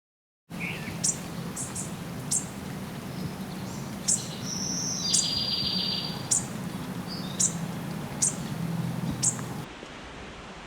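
Wild bird calls: about ten short, sharp, high call notes at irregular intervals, with a brief trill in the middle, over a steady low hum. The sound cuts off about a second before the end.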